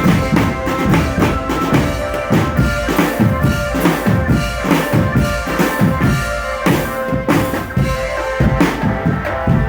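Marching drum band playing: a steady beat of bass and snare drums, about two to three strokes a second, under a held melody line.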